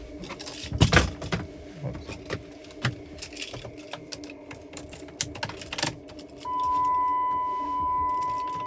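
Keys jingling and clicking as the ignition key is handled, with a few light knocks. About six and a half seconds in, a steady electronic warning tone from the dashboard comes on and holds.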